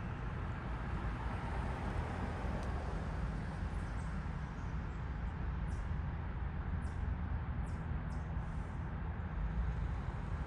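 Steady low outdoor rumble of background traffic. From about halfway in, a bird gives a series of short, high, faint chirps.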